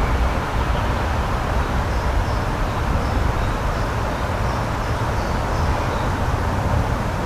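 Steady rushing outdoor noise, heaviest in the low end, with a few faint high chirps over it.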